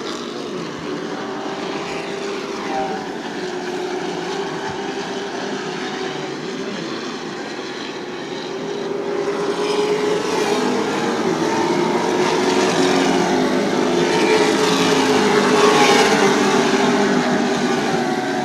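Engines of a field of Super Truck race trucks running at racing speed around the oval, a steady multi-engine drone that grows louder in the second half as trucks come closer.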